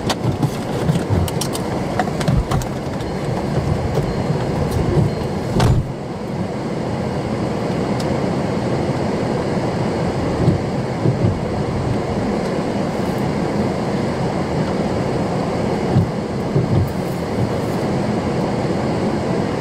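A car's steady rumble of road and wind noise, with scattered knocks in the first few seconds and one sharp knock about six seconds in.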